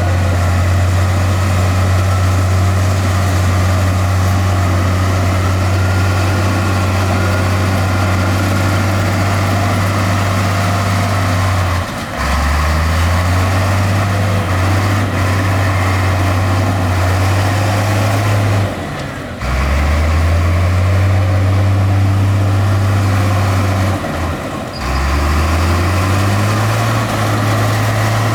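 Diesel engine of a Komatsu D20 bulldozer running hard and steadily. Its pitch drops briefly three times, about 12, 19 and 25 seconds in, and climbs back up each time as the load and throttle change.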